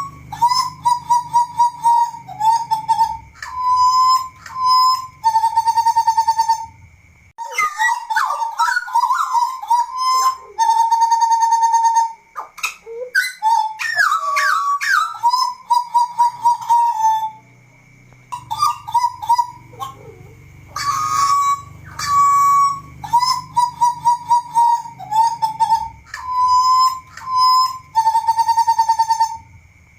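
Butcherbird singing: clear, fluting whistled notes around one pitch, given in repeated phrases of several notes with short pauses between them. A faint steady high tone runs underneath.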